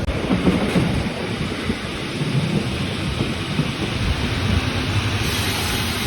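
Rhaetian Railway regional train running along the track: a steady, rumbling rush of noise.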